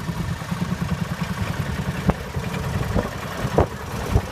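Engine running with a low, uneven rumble, with a few sharp knocks over it.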